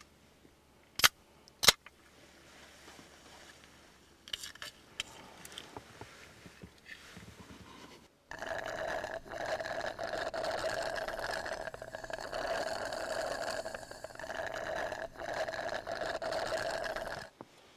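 Two sharp clicks about a second in, then faint rustling. From about eight seconds in, a long, noisy slurp of soda sucked through a straw from a can, with a few short breaks, stopping abruptly just before the end.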